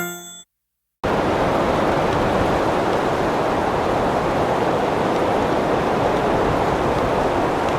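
Strong wind blowing across the microphone: a loud, steady rushing noise with low rumble that cuts in about a second in, after a short piano jingle dies away.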